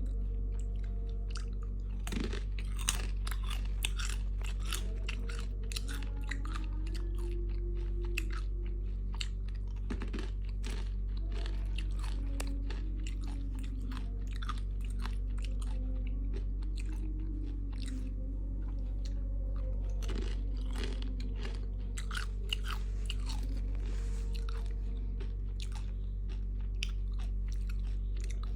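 Close-up crunching and chewing of crispy fried chicken intestine, with many short, dry crackles throughout, over a steady low hum.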